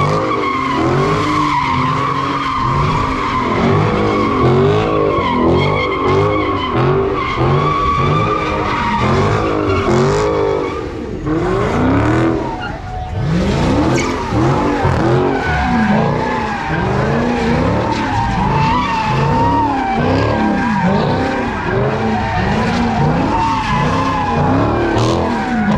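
Car tyres squealing in a sustained slide, a steady high screech, while the engine revs rise and fall over and over, about once a second, as at a street-takeover burnout.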